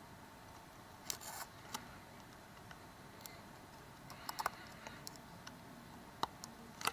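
Faint small clicks and a brief light scrape of a plastic home button being fitted into a smartphone's metal screen frame and pressed, with a few scattered clicks and a small cluster about four seconds in.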